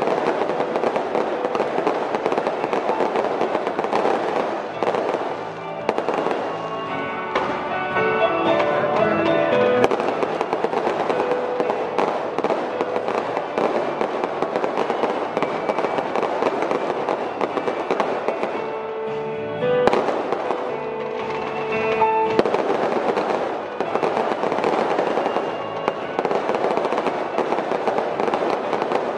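Fireworks display: a continuous, dense crackling and popping of bursting shells, with music playing underneath; the music's notes stand out briefly about a quarter of the way in and again about two-thirds of the way through.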